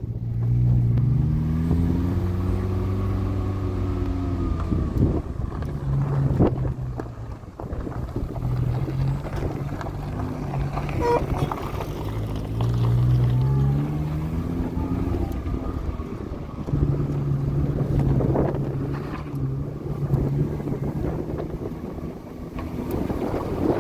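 A vehicle engine running, its pitch rising and falling several times as it speeds up and slows down.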